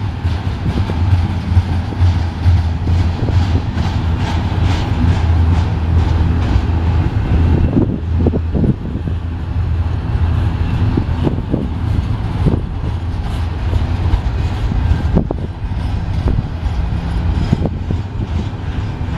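Double-stack container train's well cars passing: a steady low rumble of steel wheels rolling on the rails, broken by irregular sharp clicks and clacks.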